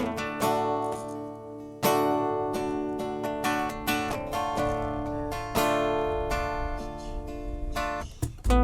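Acoustic guitar picked and strummed in a live band's instrumental intro, with a deep bass note coming in near the end.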